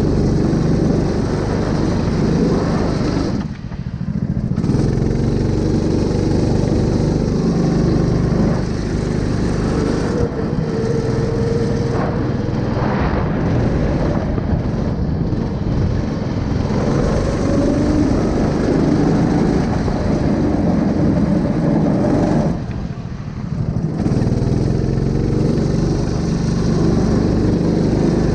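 A 9 hp small engine runs steadily, its pitch rising and falling as the load changes. It dips briefly twice, about three seconds in and again near the end.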